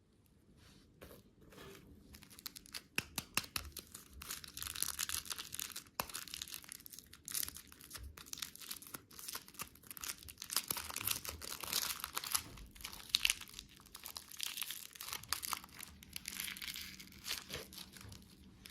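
Packaging being handled: irregular crinkling and tearing of a wrapper, a dense run of crackles.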